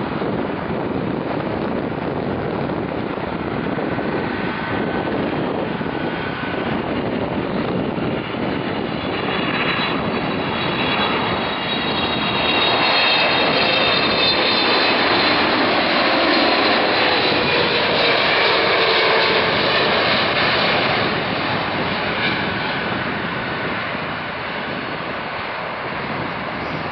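Boeing 777 freighter's GE90 turbofan engines on landing approach, a jet roar with whining fan tones. It builds to its loudest about halfway through, the tones falling in pitch as the aircraft passes, then eases off.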